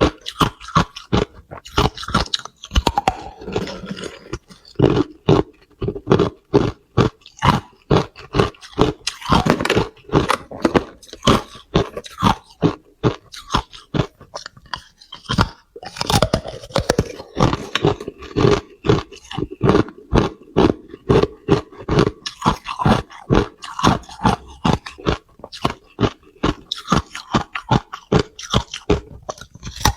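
Hard clear ice being bitten and chewed close to the microphone: rapid, irregular loud crunches and cracks, several a second, with softer chewing between them.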